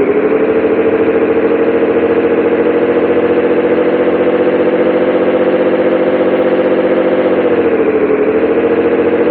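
Diesel engine of a 1998 Scania 113 360 truck running steadily, its pitch dipping briefly and recovering near the start and again about eight seconds in.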